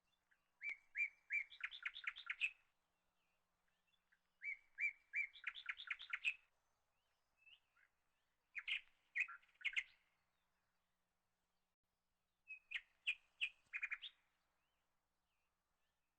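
A songbird singing four short phrases, each lasting about one and a half to two seconds and separated by pauses of about two seconds. Each phrase opens with a few clear repeated notes and runs into a quick, rapid trill.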